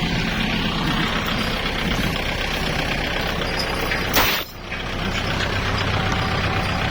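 Kubota tractor's diesel engine running steadily. About four seconds in there is a sharp crack and the sound drops out briefly, then the engine resumes with a steadier low hum.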